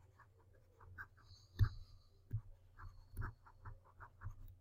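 Faint handwriting: a run of short scratching pen strokes, a few per second, with a few sharper taps among them.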